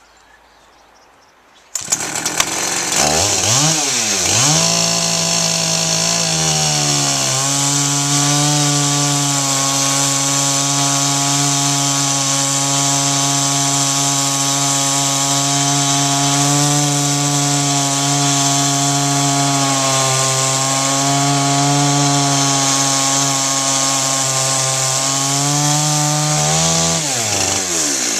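Chainsaw mounted in a Granberg G55 chainsaw mill, ripping a log lengthwise into timber. It comes in suddenly about two seconds in and revs up and down for a few seconds. It then holds a steady high pitch under load through the cut, and the pitch falls near the end as the throttle comes off.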